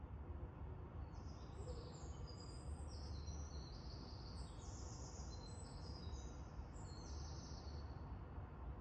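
Birds calling: many short, high, overlapping chirps from about a second in until near the end, over a faint steady low rumble of outdoor background noise.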